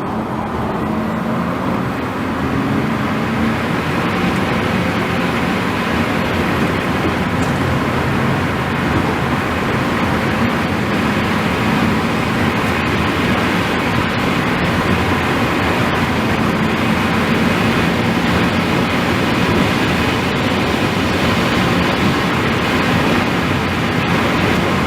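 Electric performance car driven hard at speed: a steady roar of tyre and wind noise with a faint motor whine in it.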